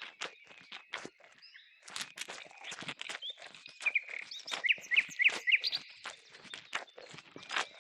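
A rapid, irregular series of clicks and knocks, with a bird chirping in short rising notes partway through.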